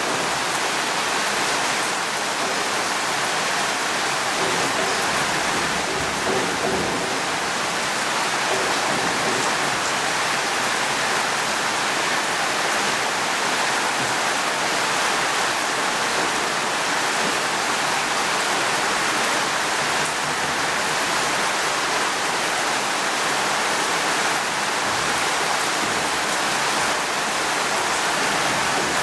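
Steady rain falling, an even hiss without breaks or thunderclaps.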